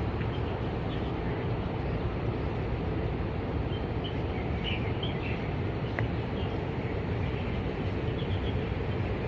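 Steady low outdoor rumble of background noise, with a few faint bird chirps about four to five seconds in and again near the end.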